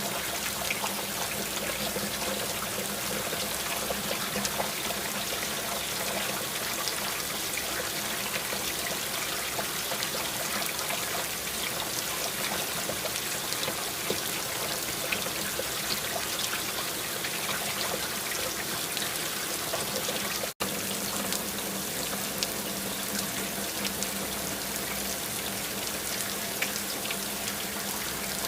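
Steady rain: a continuous rush of water with many individual drops ticking through it. The sound cuts out for an instant about two-thirds of the way through, then resumes unchanged.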